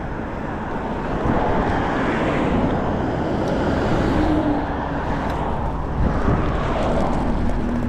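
Steady street traffic noise, with cars going by.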